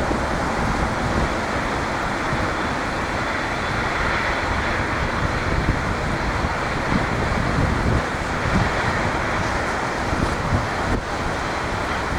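Airbus A320-232's IAE V2500 turbofans at take-off thrust, a steady jet roar, with wind buffeting the microphone.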